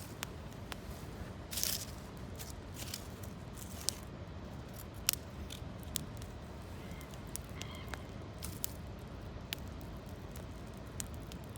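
Wood campfire crackling, with irregular sharp pops and snaps and one brief louder crackling burst about one and a half seconds in, over a steady low rush.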